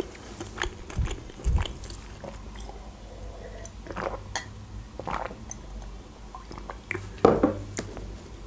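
Close-miked chewing of food with small mouth clicks and smacks, then gulps of water from a glass about four to five seconds in. A louder short knock comes about seven seconds in.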